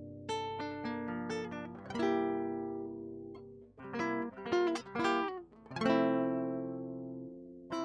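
Acoustic guitar playing an instrumental passage with no singing: chords that ring and fade, with a quick run of plucked notes about halfway through.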